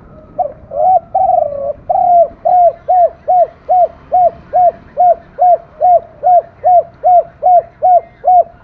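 Spotted dove cooing. The call opens about half a second in with a few longer coos, then runs into a long series of about sixteen short coos, evenly spaced at roughly two and a half a second: the '16 hậu' call of sixteen tail notes that dove keepers count.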